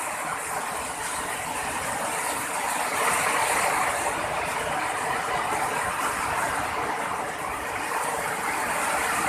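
Heavy rain pouring down steadily in a storm, a dense, even hiss that swells slightly about three seconds in.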